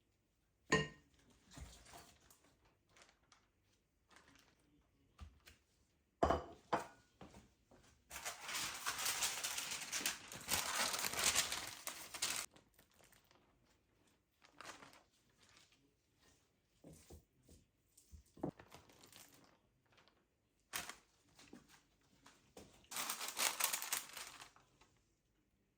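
Crinkling and rustling of something being handled, with a sharp knock near the start and another about six seconds in, and two longer stretches of dense rustling, one in the middle and one near the end.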